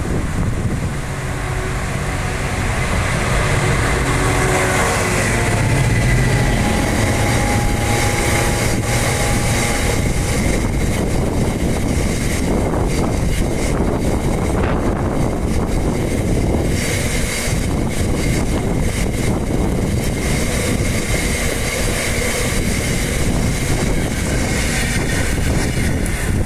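A freight train led by a Class 66 diesel-electric locomotive passing. The locomotive's EMD two-stroke diesel engine is loudest in the first ten seconds or so. After that comes the steady rumble and clatter of a long rake of bogie hopper wagons rolling by on the rails.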